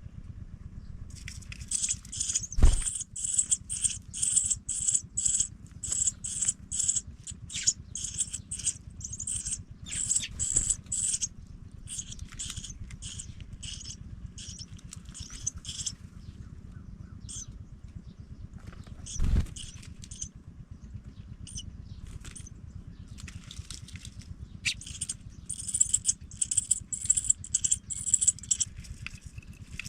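Pipit nestlings cheeping in rapid series of short, high-pitched calls, in two bouts with a pause between them, over a low steady hum. Two dull thumps come through, about three seconds in and again near the twentieth second.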